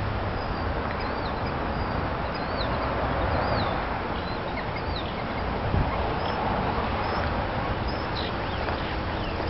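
Scattered short, high chirps from small birds, each note curving up and down in pitch. They sit over a steady background hiss with a low hum.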